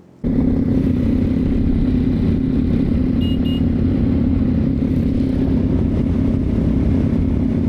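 Motorcycle running at a steady speed on the road, a low, even engine note under wind noise. It starts suddenly about a quarter second in.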